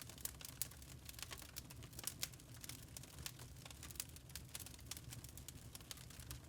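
Wood fire in a fireplace crackling: many small irregular pops and snaps over a low, steady rumble of the burning.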